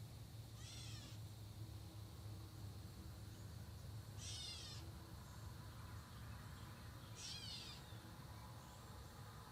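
A bird giving a short, descending, mew-like call three times, about three seconds apart, over a faint steady high-pitched drone.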